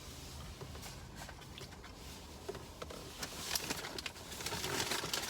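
Close-up eating sounds: chewing a fry, with small mouth clicks and crackles that get busier and louder in the second half.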